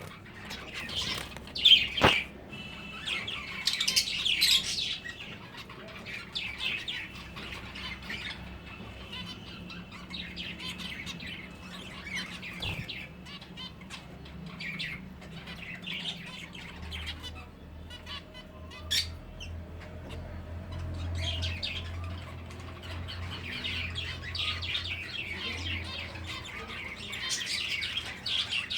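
Finches chirping and twittering in short, scattered high calls, with a few sharp clicks. A steady low hum comes in just past the middle and fades out near the end.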